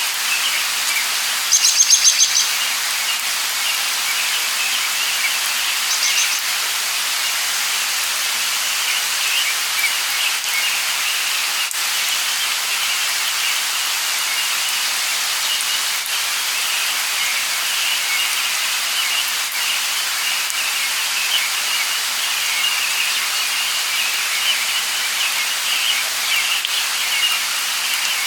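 Light rain falling in a steady hiss, with birds chirping throughout. A louder bird call of rapid repeated high notes comes about two seconds in, and a shorter one follows a few seconds later.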